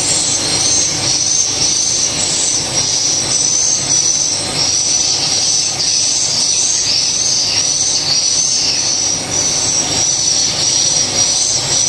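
Swiftlets twittering in a swiftlet house: a dense, loud, high-pitched chirping in short arched calls that repeat about twice a second, without a break.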